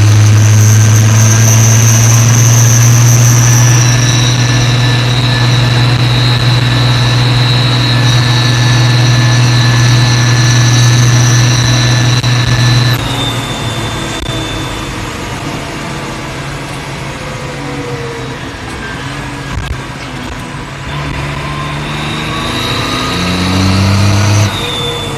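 New Holland T6030 tractor engine held at high revs with a high turbo whistle over it. About halfway through the revs and whistle drop away to a lower run, with pitch sliding, then the engine revs up again briefly near the end, the whistle returning before it drops once more.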